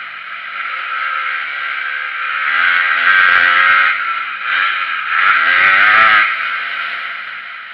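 Motocross dirt bike engine under hard riding, revving up sharply twice, about three seconds in and again near six seconds, and backing off in between, with a steady rushing noise over it.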